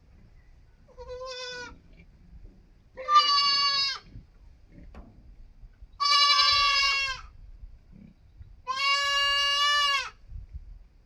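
Young goat kid bleating four times, each call a steady, drawn-out cry about a second long. The first call is fainter and shorter than the others.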